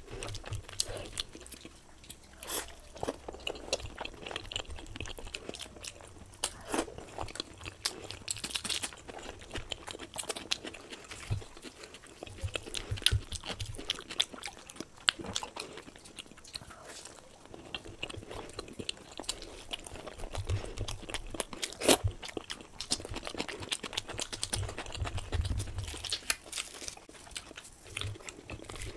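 Close-miked chewing and biting of a person eating luchi (deep-fried puffed bread) with potato curry, with frequent irregular crunches and mouth clicks.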